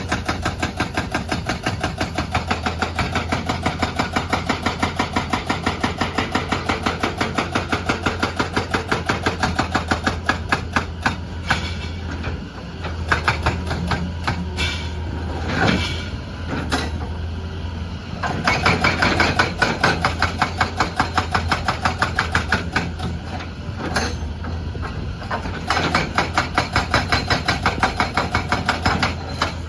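Excavator-mounted hydraulic breaker hammering in fast, even blows over the steady drone of the excavator's diesel engine. The hammering stops and restarts several times.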